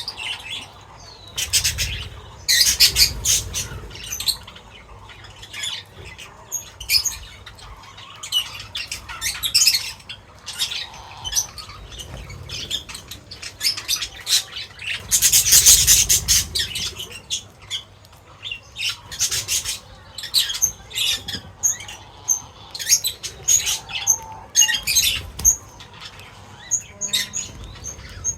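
A flock of birds chirping and squawking in quick, dense calls, with louder bursts of fluttering wings about three seconds in and again about halfway through.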